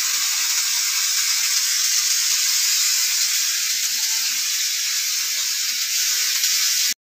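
Sliced vegetables frying in a wok, a steady high sizzle that cuts off abruptly near the end.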